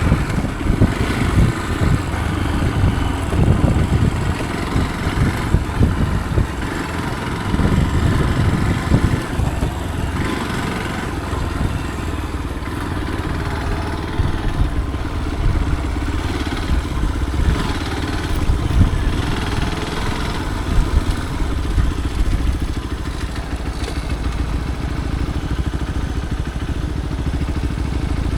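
Motorcycle engine running while riding a rough off-road trail, its level wavering with the throttle, with occasional short knocks and rattles.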